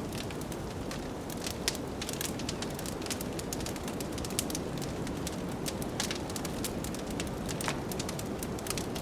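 Wood fire crackling, with frequent sharp pops and snaps over a steady low rush of blizzard wind.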